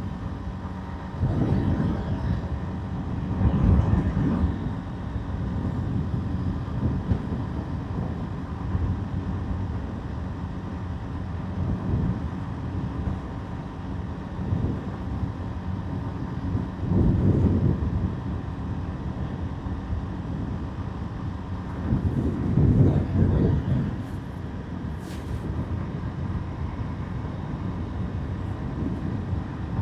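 Motorbike riding along a road at night: a steady engine hum with rumbling road and wind noise. The noise swells louder several times, near the start, in the middle and a little past two-thirds through.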